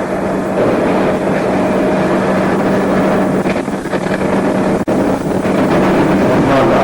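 Loud steady mechanical hum mixed with rushing noise, holding a few constant tones, with a brief dropout about five seconds in.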